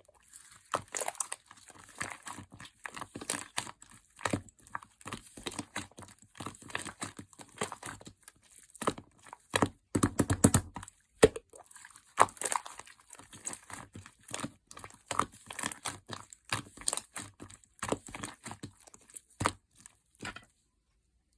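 Hand-played mixed slime being squeezed, pressed and stretched, making irregular sticky clicks and crackling pops. The sounds stop about a second before the end.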